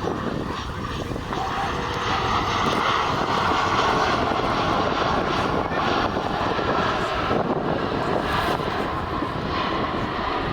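Airliner engines passing on or near the runway: a continuous engine noise that swells a few seconds in and eases off toward the end.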